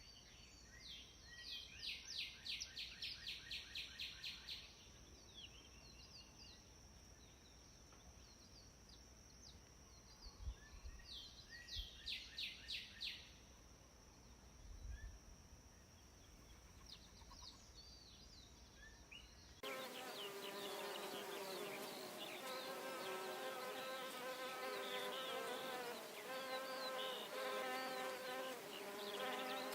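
Insect and bird sounds: a steady high insect whine with two bursts of rapid trilled calls. About two-thirds of the way through it cuts abruptly to a louder, denser buzzing of insects with many chirps over it.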